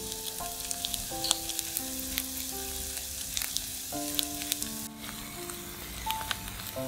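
Potato and chicken-breast patties sizzling in shallow oil in a nonstick frying pan: a steady hiss with frequent small pops and crackles. Soft background music with long held notes plays underneath.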